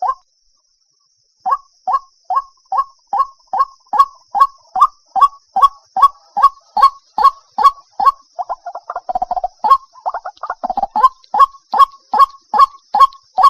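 White-breasted waterhen calling: a monotonous series of short 'kook' notes, about two and a half a second, starting after a brief pause and running on, with a rougher, jumbled burst of calls roughly two thirds of the way through.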